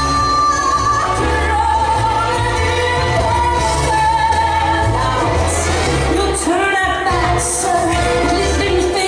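Recorded female vocal, held and belted, over band backing with a pulsing bass, played over a club sound system: the track a drag performer is lip-syncing to.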